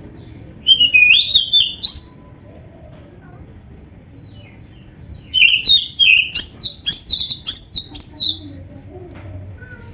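Oriental magpie-robin (kacer) singing: two phrases of loud, quick whistled notes sweeping up and down. The first phrase is short, about a second in; the second, longer phrase runs about three seconds through the middle.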